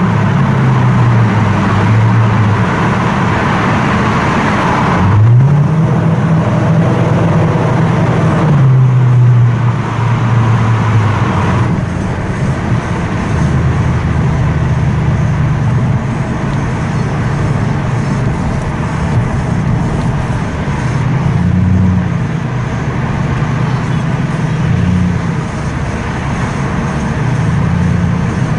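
Toyota Crown Majesta V8 breathing through a full straight-through exhaust, loud and echoing inside a tunnel. The exhaust note climbs as the car accelerates, drops back at gear changes and swings up and down with the throttle, with a sharp rise about five seconds in.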